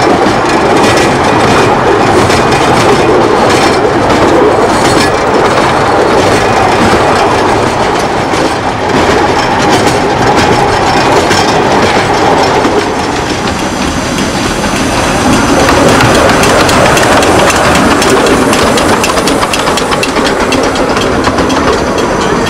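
Miniature railway train running along the track, its wheels clattering steadily over the rail joints.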